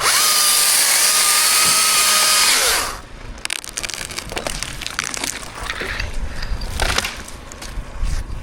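Chainsaw cutting through ash wood in a steady burst of just under three seconds, stopping abruptly. It is followed by scattered wood cracks and snaps.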